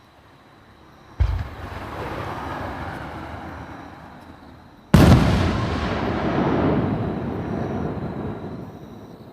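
Two aerial firework shells bursting at close range, one about a second in and a louder one about five seconds in, each followed by a long noisy tail that fades over a few seconds.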